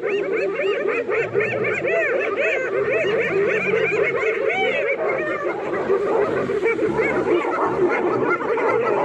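Many animals calling at once: a dense chorus of short, overlapping calls that each rise and fall in pitch, several a second, keeping up throughout.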